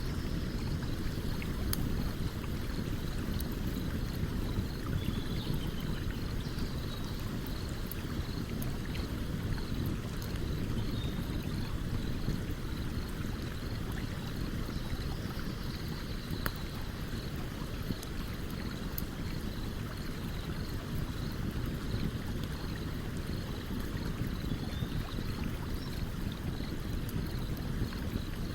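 Stream water running with a steady rushing sound, while a campfire crackles with sparse, sharp pops.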